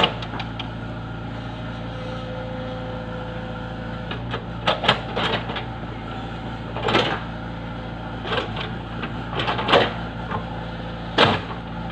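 A heavy machine's engine running steadily, with a string of sharp knocks and clanks from about four seconds in.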